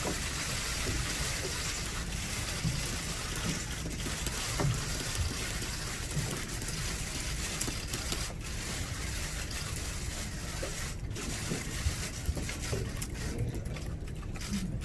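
Press-room ambience: a steady hiss of room noise with faint murmuring and scattered soft clicks.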